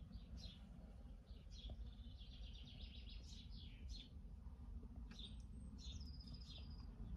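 Faint birdsong in the background: scattered short chirps, with a quick rapid trill about two and a half seconds in and a brief high whistled note near the end, over a low steady hum.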